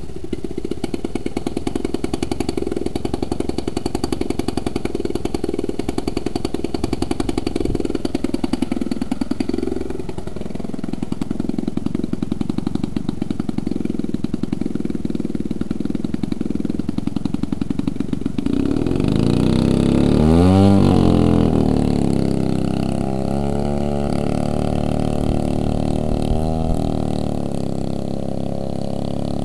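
Engine of a giant RC model SPAD airplane running steadily with a fast, even beat, and a brief dip and rise in pitch about ten seconds in. From about nineteen seconds the pitch swings up and down again and again, as when the plane passes back and forth overhead.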